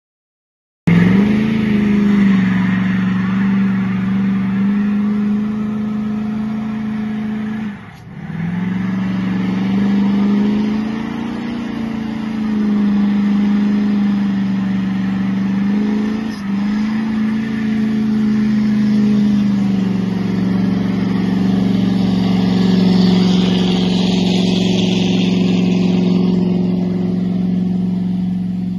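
Diesel pickup truck engine running hard, its pitch rising and falling as it revs and eases off. There are two brief breaks in the sound and a higher rushing hiss near the end.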